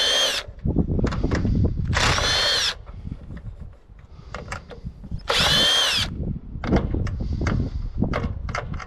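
Power drill run in three short whining bursts of under a second each, with clicks and knocks of handling between them.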